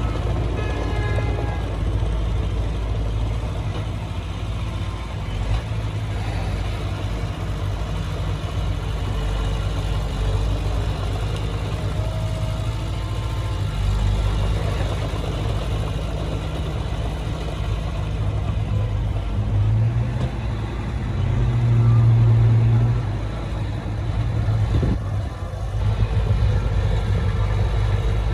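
Heavy diesel engine of earthmoving machinery running steadily, with a louder surge about twenty seconds in.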